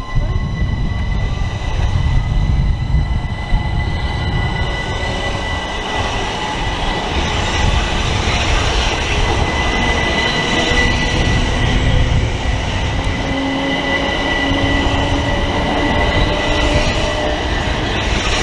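Electric multiple-unit train moving along the platform, its wheels rumbling on the rails. A steady high whine runs throughout, while the motors' tones slowly rise in pitch as the train picks up speed.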